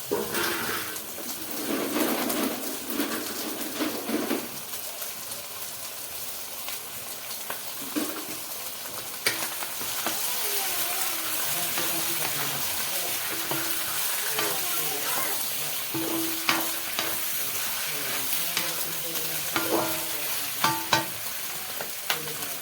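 Food sizzling as it fries in a pan, with the clicks and scrapes of a utensil stirring it.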